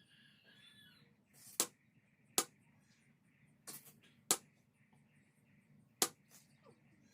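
About five sharp, short knocks at irregular intervals, in the way of light hammer blows in blacksmith work on a blade.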